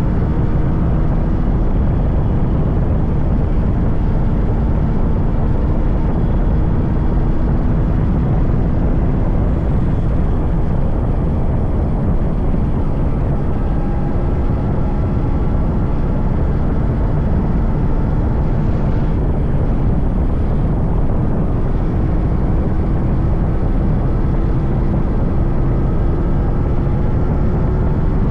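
Yamaha RX 100's 98cc air-cooled two-stroke single running steadily on the move, its pitch drifting slowly up and down with speed, under heavy wind rush on the microphone.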